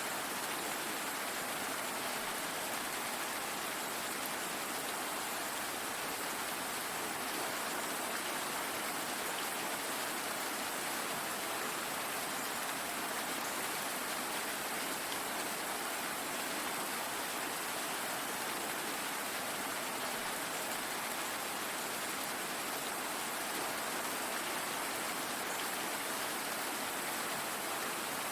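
Steady rain falling, an even hiss of many drops without pauses or changes.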